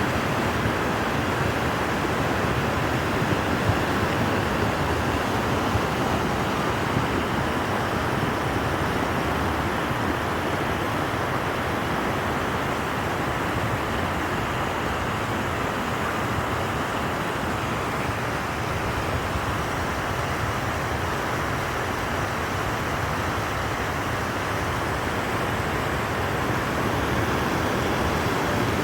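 A river swollen with floodwater after heavy rain upstream, rushing with a steady, even roar.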